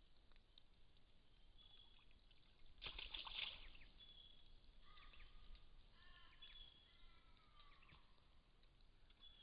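Faint forest ambience with scattered bird calls: short high chirps throughout, and from about five seconds in a few falling calls with several pitched layers. A brief louder noisy burst comes about three seconds in.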